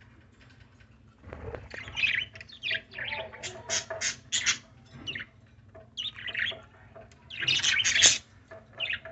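A small pet bird calling: a string of shrill chirps and squawks, including a quick run of four or five sharp calls and a longer, louder burst near the end.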